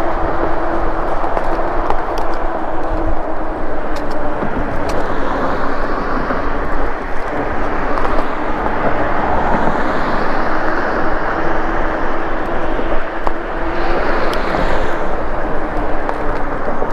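Ride noise from an e-bike in motion: a steady rush of wind and road noise on the body-mounted camera microphone. A steady low hum runs underneath and drops away near the end, with a few faint clicks.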